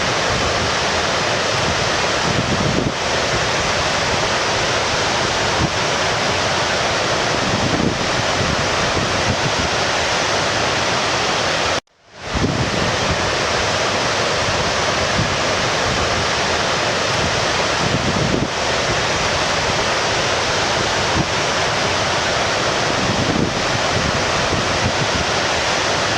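Steady rushing of stream water, a full, even water noise. It cuts out for a moment about halfway through and quickly comes back.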